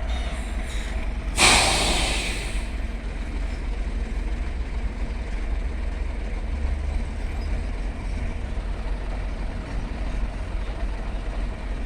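Heavy truck's diesel engine running steadily, with a short, loud air-brake hiss about a second and a half in that fades over roughly a second.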